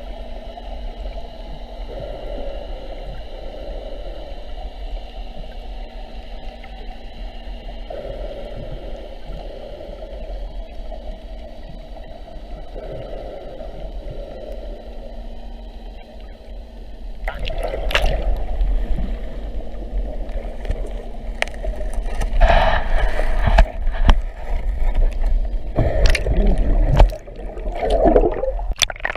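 Water gurgling and lapping around a boat at anchor. From about halfway through, a louder, uneven low rumble and a few knocks come in.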